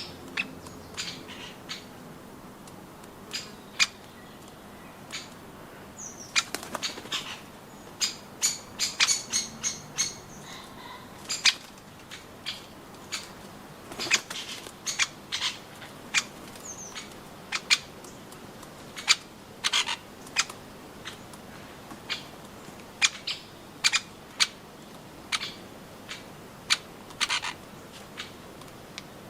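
Irregular sharp taps and clicks of a bird pecking at nuts, some in quick clusters, with a couple of brief high chirps.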